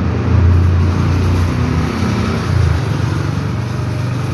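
A motor vehicle's engine running in street traffic, a low steady hum that swells and eases over the first few seconds.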